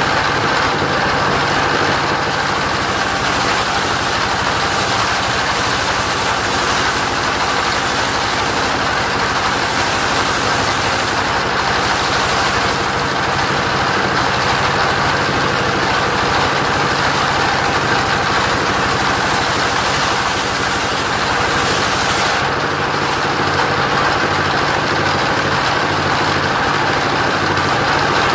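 Engine-driven mobile sawmill running steadily, a continuous mix of engine hum and hissy saw noise; the tone shifts slightly about 22 seconds in.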